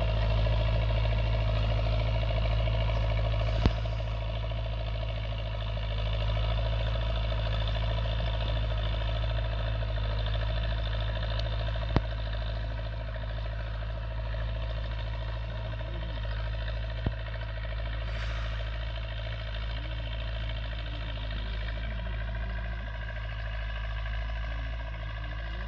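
Diesel tractor engine running steadily while pulling a plough through the field. Three short sharp clicks cut in over it.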